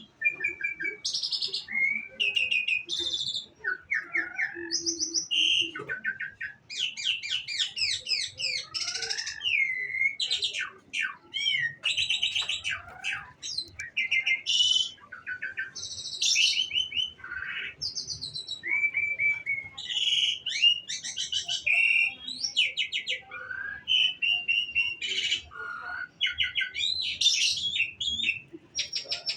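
Bird song: a fast, varied, almost unbroken stream of chirps, trills and short gliding whistles.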